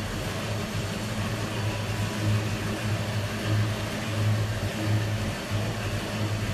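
Car engine running steadily with a low, slightly pulsing hum.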